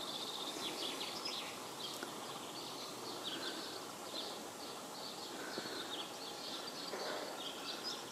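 Faint bush ambience: birds chirping with many short, high-pitched calls over a soft steady hiss.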